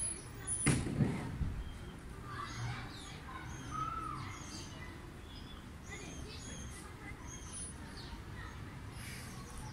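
Small birds chirping and twittering in the background, many short high calls scattered throughout. A brief low thump and rustle about a second in.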